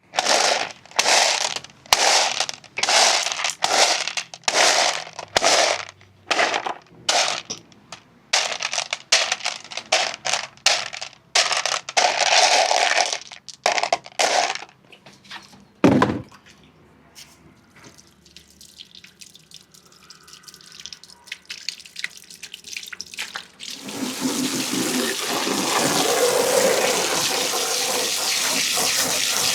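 Marbles running down a marble-run track: a quick string of short rattling rolls and drops, about two a second, a single heavier knock a little past halfway, a lull of scattered light clicks, then a steady rolling rush of many marbles over the last five seconds.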